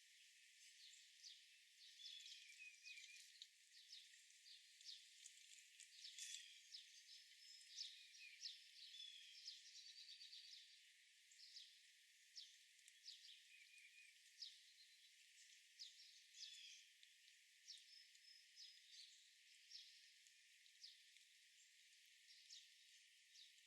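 Faint outdoor birdsong: many short chirps and a few quick trills from small songbirds, several a second, over a thin hiss, with no low sounds at all.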